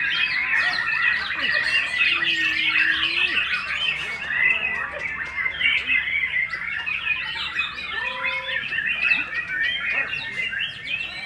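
Many songbirds chirping and calling at once in a dense, continuous chatter of short, quick notes, with two brief steady tones standing out, one about two seconds in and one about eight seconds in.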